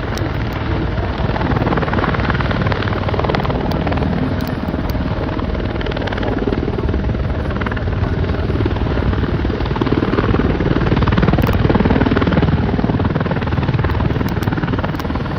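Aircraft in the air display, a loud, steady engine noise that swells a little about ten seconds in.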